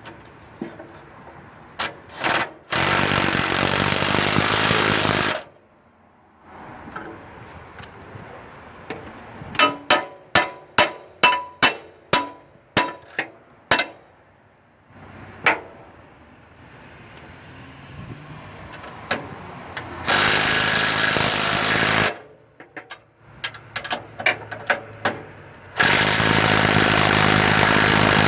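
A power tool runs in three bursts of two to three seconds each, and between the first two comes a run of about a dozen sharp metallic strikes, roughly two a second.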